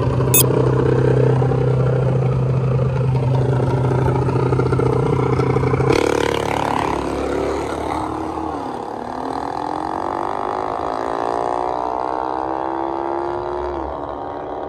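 A vehicle engine running at a steady pitch; about six seconds in the sound changes abruptly, and then an engine's pitch rises steadily for several seconds as it accelerates.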